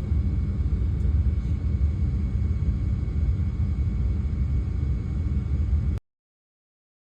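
Steady low rumble that cuts off suddenly about six seconds in.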